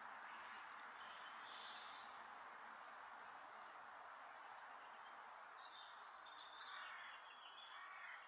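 Small birds chirping and calling over a steady, even outdoor hiss.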